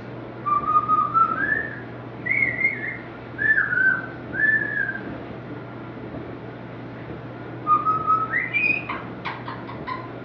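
Pet bird whistling short pure notes that glide up and down, five in a row, then after a pause a rising whistle followed by a few quick clicks near the end.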